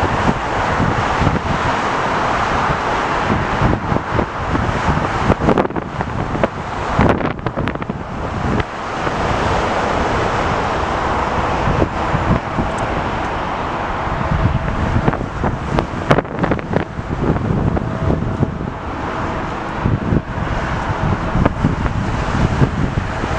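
Strong gusty wind buffeting the camera's microphone, a loud, uneven rumble with crackling gusts that swell and drop throughout.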